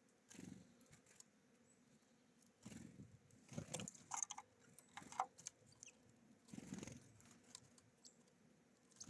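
Birds feeding at a seed feeder: faint, irregular pecking taps and rustles, with a cluster of louder clicks around the middle and a brief high chirp.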